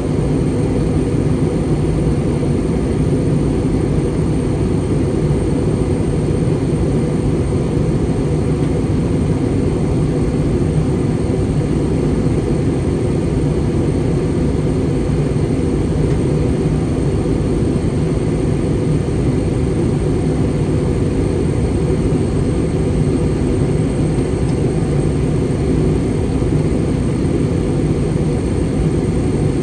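Steady in-cabin noise of an Airbus A320 airliner in flight: a dense low rush of airflow and the engines' drone, unchanging throughout, with a faint thin high tone above it.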